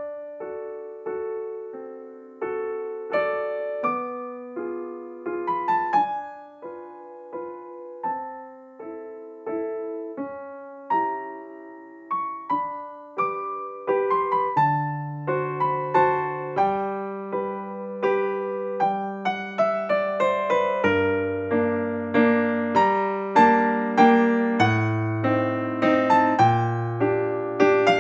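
Solo piano background music, a gentle melody of struck notes that decay, with a lower bass line joining and the playing growing fuller about halfway through.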